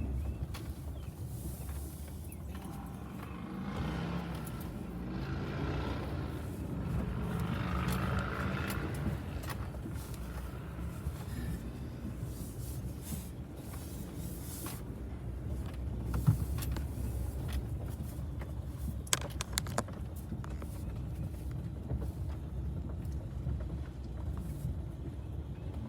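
Camper van driving slowly along a bumpy campground road, its engine and tyres making a steady low rumble. A few sharp clicks or rattles come about three-quarters of the way through.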